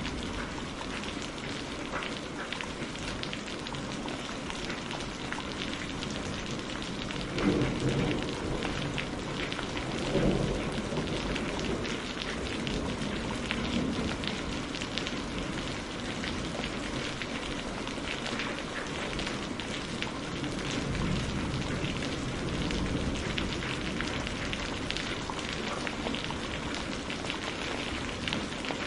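Steady rain falling in a dense patter of drops, with two short low rumbles of thunder about seven and ten seconds in and a longer low rumble a little after twenty seconds.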